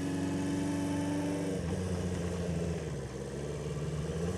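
1976 Honda 400/4's air-cooled four-cylinder engine running on the road with a steady note, which about a second and a half in drops lower and turns rougher.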